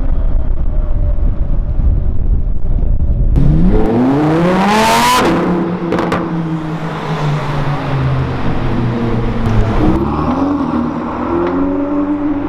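Supercar engine on the street: a deep rumble, then a sharp rev about four seconds in with the pitch climbing fast, a burst of noise at its peak, then a lower steady note and a second, smaller rise near the end.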